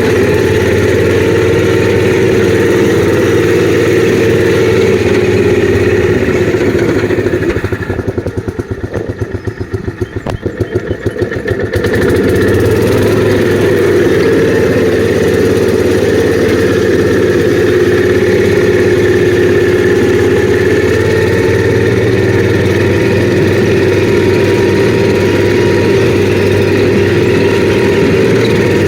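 A gasoline engine runs steadily, drops to a slow, pulsing idle about eight seconds in, then picks back up after about four seconds.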